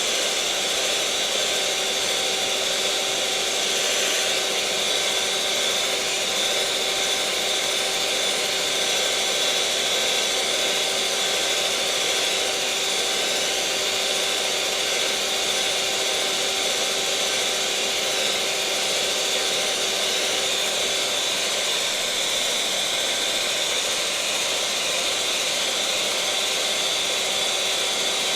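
Electric kitchen mixer running steadily at one speed: a constant motor whine with a hum of several steady pitches over a broad whirring hiss.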